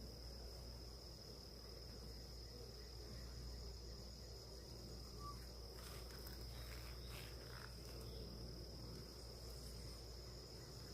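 Faint, steady, high-pitched insect trill over a low hum, with a few soft clicks and knocks about six to seven seconds in.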